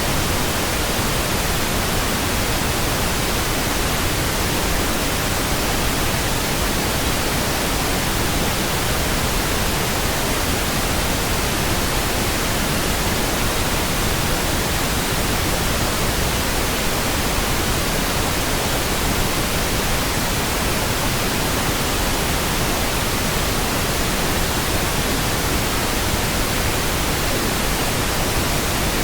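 Steady synthetic pink noise: an even hiss spread across all pitches, with no change in level.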